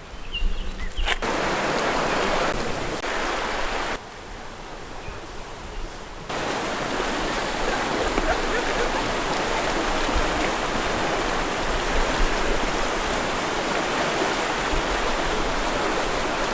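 Steady rushing water of Minnehaha Creek and its falls. It drops quieter for about two seconds near the start, then comes back louder.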